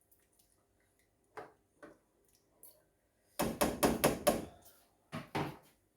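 Sharp knocks of a cooking utensil against a pot: two single taps, then a quick run of about six raps about three and a half seconds in, and two more near the end.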